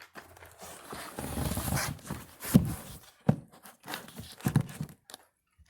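A toy airplane being handled and moved about: rustling and scraping, then a few sharp knocks as it is set down or shifted.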